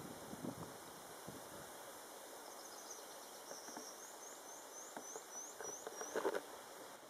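Outdoor ambience in which a small bird sings a run of short, high, rising notes, about four a second, for a few seconds in the middle. Scattered soft knocks and rustles, the loudest cluster near the end.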